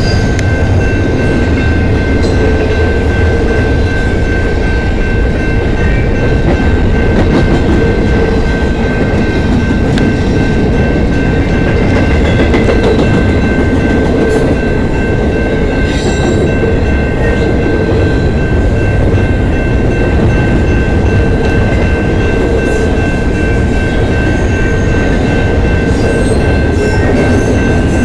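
Double-stack intermodal freight cars of a CN train rolling steadily past a level crossing: a continuous loud rumble and clatter of wheels on rail. Over it runs a steady high ringing at several fixed pitches, which fits the crossing signal's bell sounding while the lights flash.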